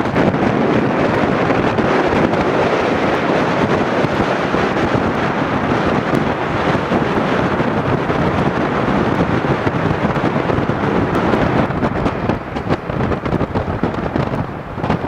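Strong wind blowing across the microphone: a loud, steady rushing rumble that turns gustier, with brief lulls, in the last few seconds.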